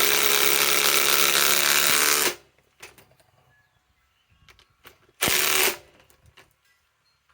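Ryobi PSBIW25 compact impact wrench hammering as it drives a 5/16 by 3 inch galvanized lag screw into wood that has not been pre-drilled. It stops about two seconds in, then gives one short burst of about half a second a few seconds later.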